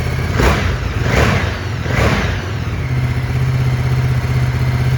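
Ducati Multistrada 950 S's 937 cc L-twin, breathing through a Termignoni exhaust, blipped three times in quick succession in the first two and a half seconds, then settling back to a steady idle.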